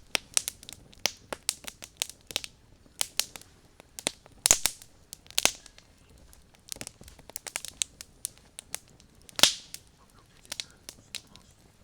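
Wood campfire crackling, with irregular sharp snaps and pops; two louder pops come about four and a half and nine and a half seconds in.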